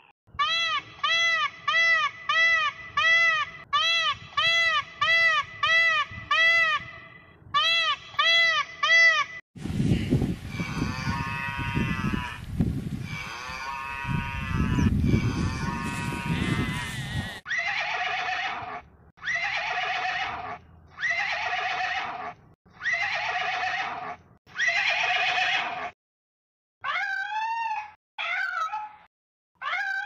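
A run of animal calls. First comes about nine seconds of quick, short, repeated pitched calls. Then a long, loud, rough call runs for about seven seconds, followed by five drawn-out calls of about a second each, and a kitten meowing a few times near the end.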